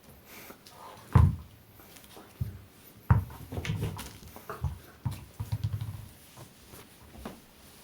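Two Shiba Inus play-fighting over a ball: short low growls in irregular bursts, with sharp clicks and scuffles of mouthing and tussling. It is rough play, not real aggression.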